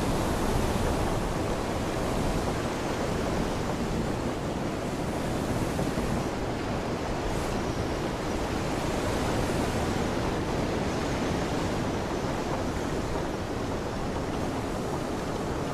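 Steady rain falling, with wind buffeting the microphone: a constant even hiss without a break.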